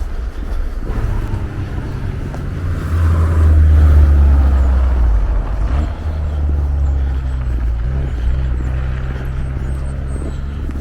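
Road traffic: the low, steady hum of a passing motor vehicle's engine, swelling about three to five seconds in.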